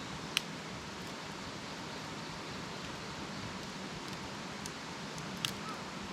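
Wood campfire burning with a steady soft hiss and two sharp crackling pops, one just after the start and one near the end.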